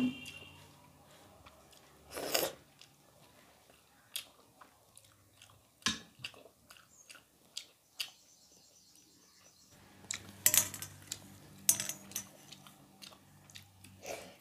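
Chewing and biting of food by hand, with soft squishing as fingers mix vegetable sabji on a plate, in short irregular bursts that cluster near the end.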